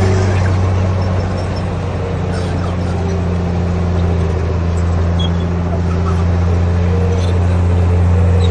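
Diesel engine of a heavy construction machine running steadily under load, a deep constant hum.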